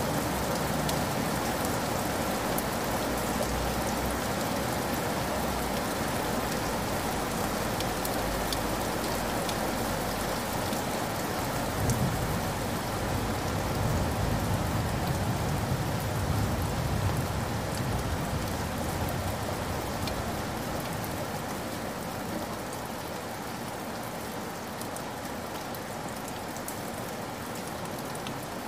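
Heavy rain pouring and splashing onto a hard surface, a steady dense hiss of drops. A low rumble swells under it for a few seconds near the middle, and the downpour eases a little toward the end.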